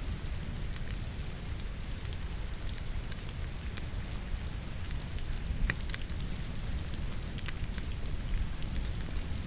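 Steady rain together with a wood fire burning in a fireplace: a constant low rumble and hiss with scattered sharp crackles and pops from the burning logs.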